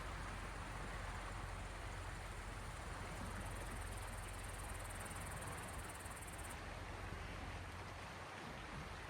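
Gentle waves on the Gulf of Finland washing steadily against the shore, an even water noise with a low rumble underneath. A faint high-pitched buzz joins about three seconds in and stops suddenly a few seconds later.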